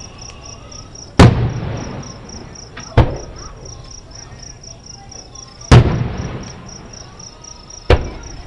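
Distant aerial firework shells bursting: four sharp booms, each trailing off in a rolling rumble, the first about a second in and the last near the end. A steady, fast-pulsing insect chirp, typical of crickets, runs underneath.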